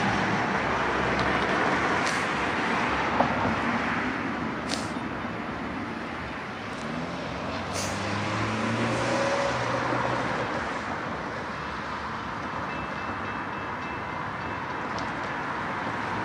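A train running past: steady rail noise with a few sharp clicks spread through it.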